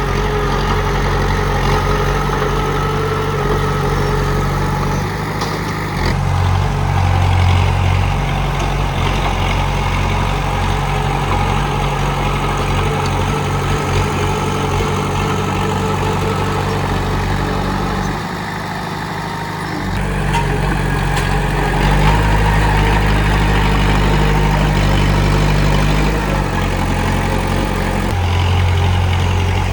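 Komatsu D31P bulldozer's diesel engine running as it works, its pitch and load shifting every few seconds. It eases off briefly about two-thirds of the way through, then picks up again.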